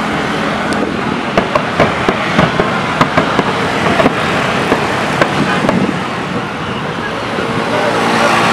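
Fireworks going off in a quick series of sharp bangs over a steady background roar, the bangs stopping about five seconds in.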